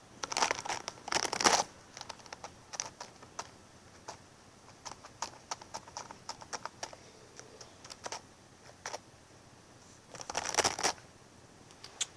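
Close-up crinkling with scattered light clicks and taps. A dense burst of crinkling comes about a second in and another near the end.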